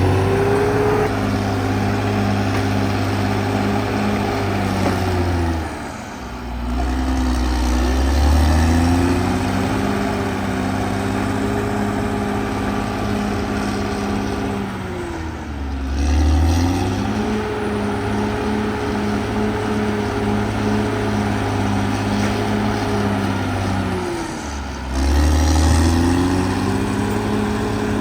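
Caterpillar D6R XL bulldozer's diesel engine running hard at high revs, its pitch dropping and climbing back up three times, roughly every nine seconds.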